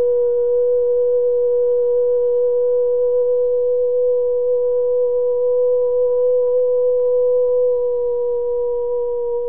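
A woman's voice toning: one long, steady held note in the middle of her range, almost pure in tone, easing slightly softer near the end.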